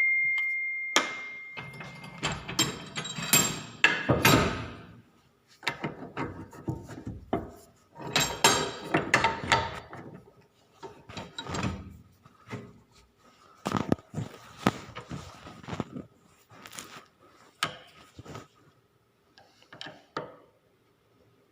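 Irregular knocks, clinks and rustles of metal steering-shaft parts and tools being handled on a workbench, with a metal part ringing with a clear tone for about two seconds at the start.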